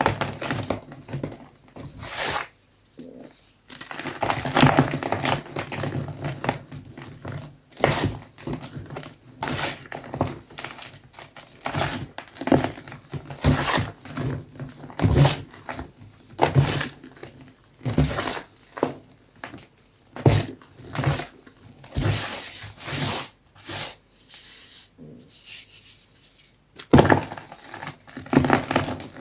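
Soft gym chalk being crushed close to the microphone: a string of irregular crunches and crumbly crackles, some short and sharp, some drawn out over a second or so.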